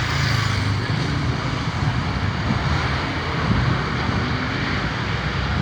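Jet airliner in flight: its engines make a steady rushing noise with a low hum underneath.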